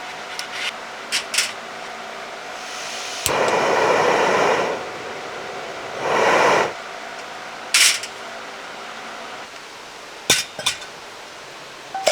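Cooking utensils and dishes clinking and knocking a few times, with two short rushing noises about two seconds apart in the middle.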